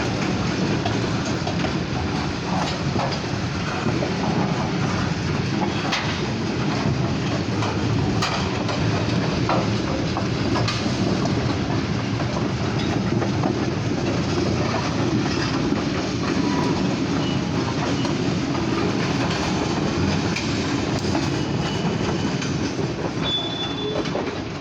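Short freight train rolling steadily past: a continuous rumble of wheels on the rails, with scattered clicks as the wheels cross rail joints. A short high squeal comes near the end.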